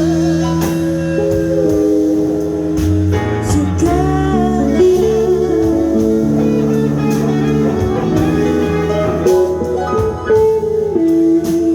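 Live jazz band playing a slow, blues-tinged number, with guitar to the fore.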